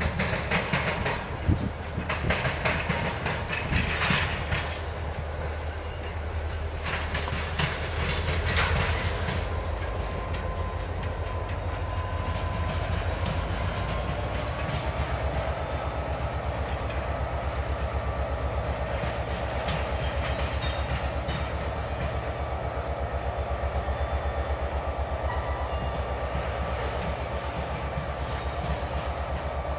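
Freight train rolling past, its cars' wheels clicking over the rail joints in a steady rhythm. Louder rushing bursts come and go in the first nine seconds, then the clatter settles to an even level.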